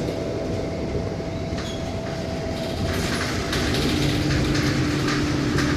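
Riding inside a city bus: steady engine and road rumble with rattling from the cabin. A steady engine hum comes up about three and a half seconds in.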